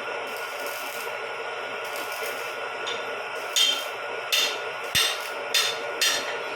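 A steady machine hum. About halfway through, five short rasping strokes begin, roughly one every two-thirds of a second.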